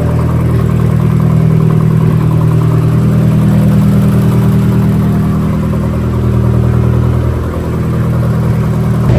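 Turbocharged Nissan Hardbody pickup engine running steadily on its first start, dipping briefly in level about seven and a half seconds in.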